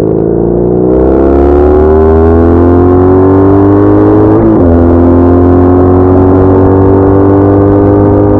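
BMW R1200R boxer-twin motorcycle engine pulling under acceleration, its pitch rising for a few seconds. About halfway through the pitch drops suddenly as it changes up a gear, then it pulls on steadily, climbing slowly.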